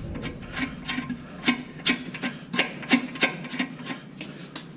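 Metal hand tools working on the engine mount bolts: a series of irregular sharp clicks and knocks of steel on steel, a few a second.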